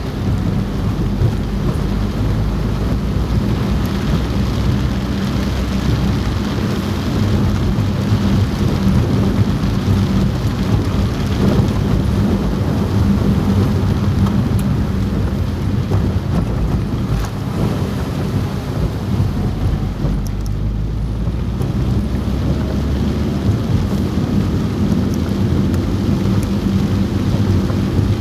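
Heavy rain drumming on a car roof, heard from inside the cabin, over a steady low rumble from the moving car. The rain's hiss thins briefly about twenty seconds in.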